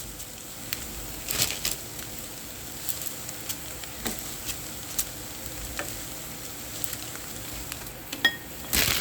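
Pansit frying in a pan with a steady sizzle, broken by scattered clicks and scrapes of a utensil stirring, a louder knock near the end.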